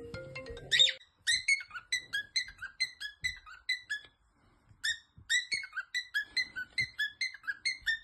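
A parrot giving rapid, repeated short whistled chirps, about four a second, each dropping slightly in pitch, in two long runs with a brief pause about four seconds in. The first second holds the tail of a short ringtone-like melody.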